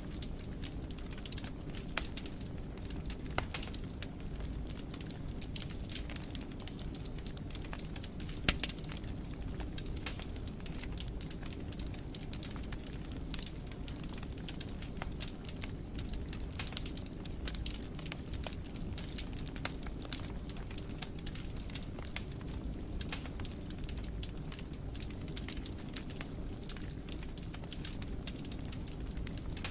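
Wood fire crackling in a fireplace: a steady low rumble of flames under frequent sharp pops, with one louder pop about eight and a half seconds in.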